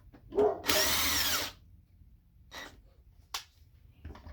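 Power drill-driver spinning a bolt on a Honda transmission valve body for about a second, its motor whine rising then falling, followed by a short rustle and a single light click.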